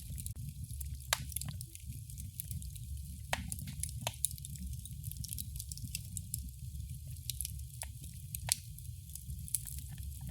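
Wood fire burning in a fireplace: a steady low rumble of flame with irregular crackles and sharp pops, a few of them louder, scattered throughout.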